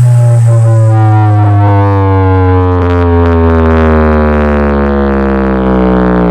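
Large outdoor sound system playing a long, loud synthesized tone. Its deep base note holds steady while the upper part glides slowly downward in pitch, and it cuts off near the end.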